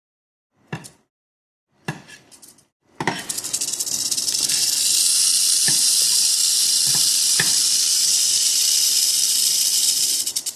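Mojave rattlesnake rattling: a loud, steady, high buzz that starts about three seconds in and runs for some seven seconds, with a few sharp clicks over it. Two brief handling sounds come before it.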